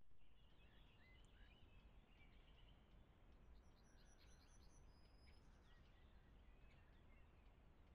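Faint birdsong: several small birds chirping, whistling and trilling, busiest about halfway through, over a steady low background hiss.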